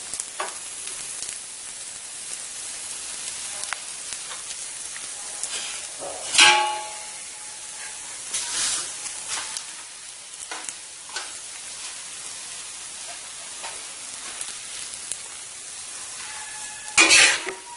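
Egg chapati sizzling on a hot iron tawa, a steady frying hiss. A few louder scraping sounds cut through it, the loudest about six seconds in and again near the end.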